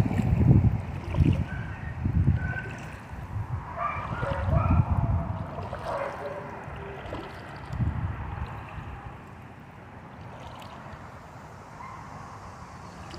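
Wind gusting on the microphone over a steady rush of running water, the gusts dying down after about eight seconds. A few short whistly notes sound in the first half.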